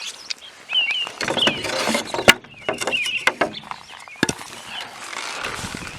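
Birds chirping in short calls over shuffling footsteps, with a sharp click a little over two seconds in.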